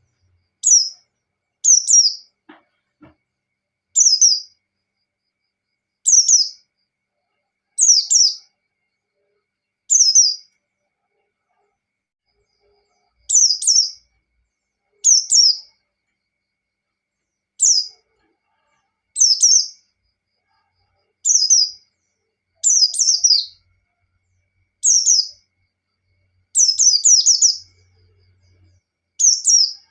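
White-eye (pleci) repeating short, high, downward-sweeping chirped phrases, each about half a second long, every one and a half to two seconds, with complete silence between them, as in an edited lure recording.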